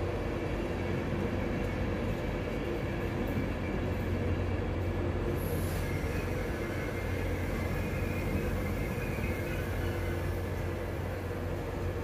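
Passenger train running with a steady low hum and a held drone, keeping an even level without rising or falling.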